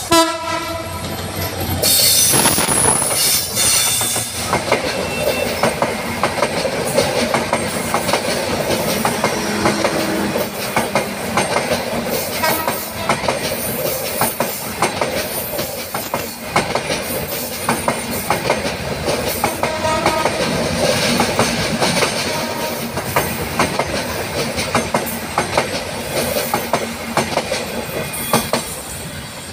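Diesel locomotive of a passenger train sounding its horn briefly, then the locomotive and a long string of intercity coaches passing close by. The passing coaches make a continuous clickety-clack of wheels over rail joints along with the rumble of the running train.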